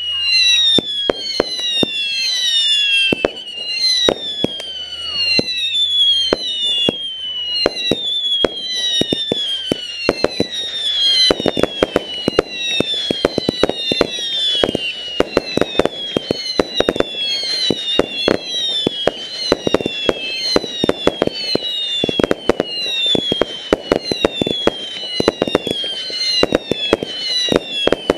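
Fireworks going off: a continuous run of overlapping whistles that each fall in pitch, mixed with many sharp bangs and cracks. The bangs come thicker from about eleven seconds in.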